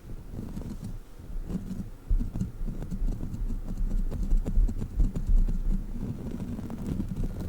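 A sticky crawler toy being squeezed, pressed and peeled by hand close to a microphone. It gives an irregular low handling rumble full of small sticky clicks and pops.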